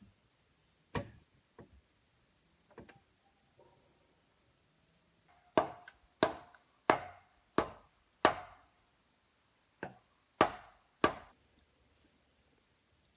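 Wood being chopped with a bladed hand tool: about ten sharp blows. The first three are lighter, then comes a quick run of five hard strikes and three more near the end.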